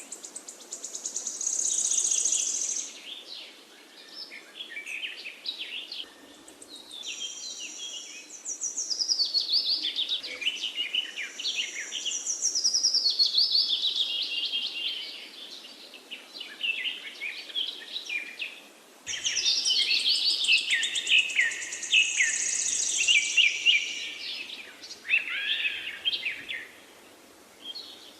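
Several songbirds chirping and singing together in a busy chorus of quick chirps, trills and falling phrases. The sound changes abruptly about two-thirds of the way through, as at an edit.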